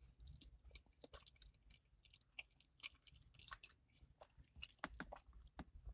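A person chewing a sandwich with the mouth closed: faint, irregular mouth clicks and soft crunches, several a second.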